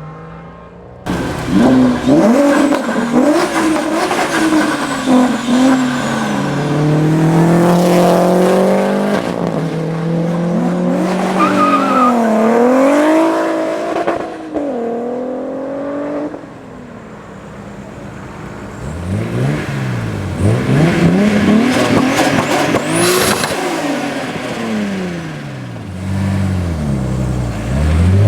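Tuned high-performance car engines revving and accelerating in a run of short clips, their pitch climbing and dropping through gear changes and throttle blips. Near the end several quick revs rise and fall in a row.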